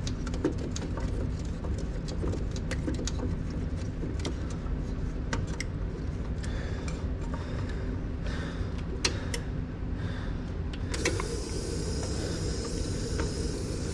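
Clicking and scraping as sediment is cleaned out of a steam humidifier's drain, over a steady low hum. About eleven seconds in, a steady hiss of running water starts as the drain is flushed.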